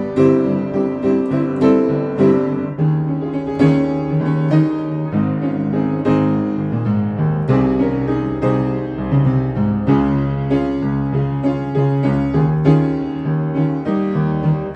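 Piano playing a hymn accompaniment without voices: a steady flow of chords and melody notes.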